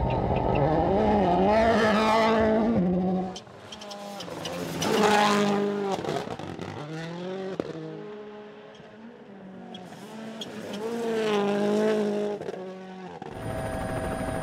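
Rally car engines revving hard, pitch climbing and dropping through gear changes as the cars pass at speed, three loud passes in all. Near the end it cuts abruptly to a steady drone.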